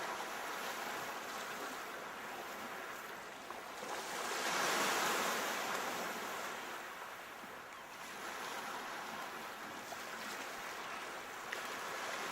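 Sea waves breaking and washing on the shore, one wave swelling louder about four to six seconds in.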